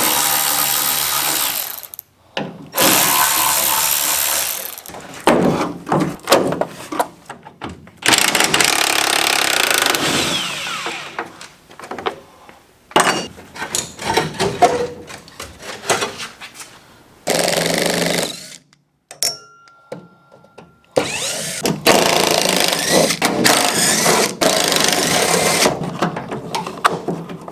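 Power tools running in repeated bursts of a few seconds each, with knocks and clatter in the gaps between them.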